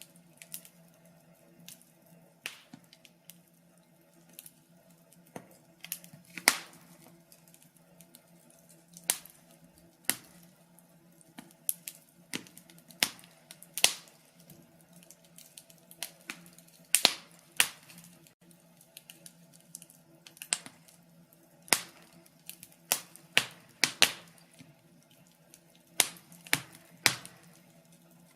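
Wood fire crackling: irregular sharp pops and snaps, some loud and some faint, coming in uneven clusters over a faint steady low hum.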